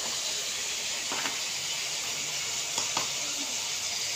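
Chicken pieces sizzling steadily in a kadhai of hot oil and their own released juices, with two light clicks about a second and three seconds in.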